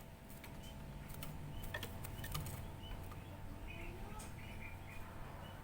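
Faint, short bird chirps, a handful clustered a little past the middle, over a low steady hum and a few soft clicks.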